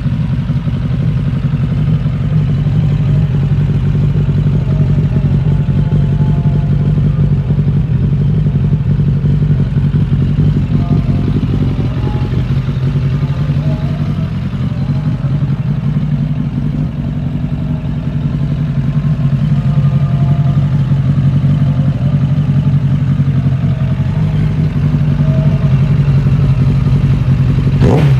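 Suzuki GSX750F inline-four engine running through a full Akrapovič carbon exhaust, holding a steady low idle with slight swells in loudness.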